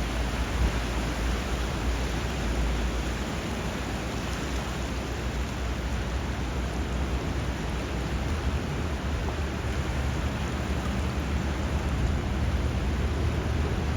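Steady rushing water where a river runs into the sea, with a low rumble underneath.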